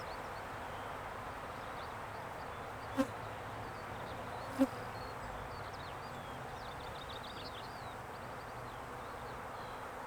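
Honeybees buzzing steadily around an open hive, with two short knocks about three and four and a half seconds in.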